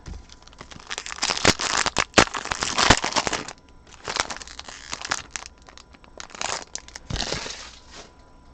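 Crinkling and rustling of a plastic trading-card pack wrapper as it is torn open and the cards handled, with a few sharp clicks; the busiest stretch runs from about one to three and a half seconds in, with shorter bursts later.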